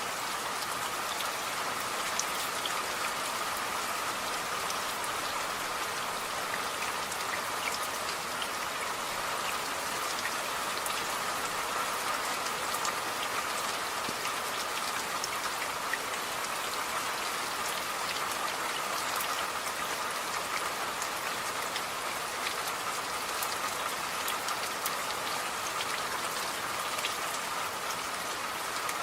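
Steady rain falling, a constant even hiss with many individual drop ticks scattered through it.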